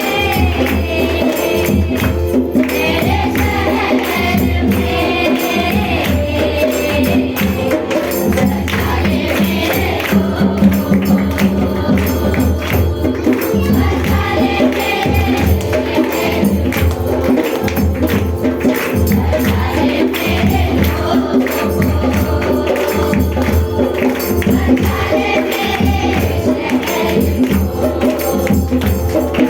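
Group of voices singing a Christian worship song to a steady tambourine beat and rhythmic percussion.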